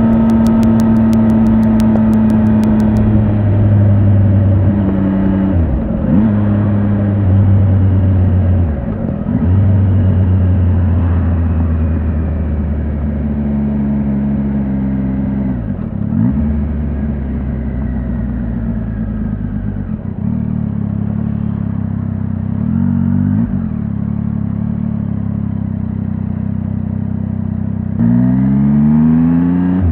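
Triumph Tiger 800 XRT's three-cylinder engine under way, its pitch rising with the revs and dropping sharply at each gear change, several times over. It runs fairly steady for a stretch in the second half, then revs up again near the end.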